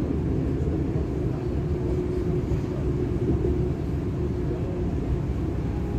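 Inside a DB Class 425 electric multiple unit running between stations: a steady low rumble from the running gear, with a faint steady hum through the middle.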